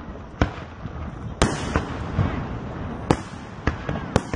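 Aerial firework shells bursting in a display: about six sharp bangs in four seconds, unevenly spaced.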